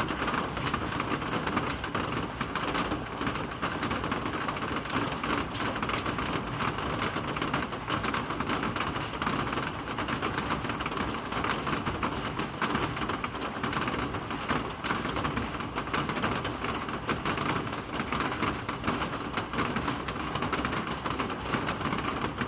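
Steady rain falling: a dense, even patter of drops with many small sharp ticks.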